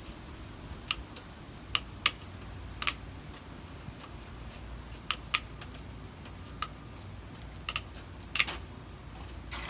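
Metal snips cutting through an expanded-metal screen: about ten sharp, irregular snips as the blades close on the metal strands.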